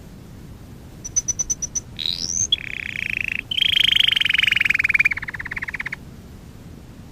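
Canary singing one song phrase: a quick run of high repeated notes, a rising whistle, then a long, fast rolling trill that stops about six seconds in.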